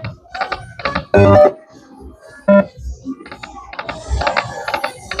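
Electronic slot machine game sounds: short, bright keyboard-like tones and jingles with clicks as the reels spin, loudest about a second in and again near the middle.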